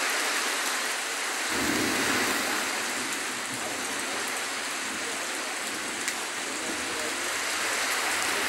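Heavy rain pouring steadily onto a street, with a low rumble setting in about a second and a half in.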